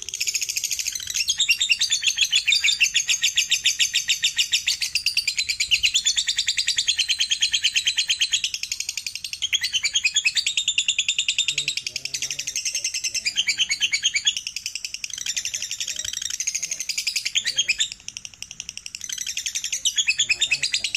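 Lovebirds singing the long, rapid chattering trill that keepers call 'ngekek': fast high-pitched pulses strung into runs several seconds long, with a few short breaks.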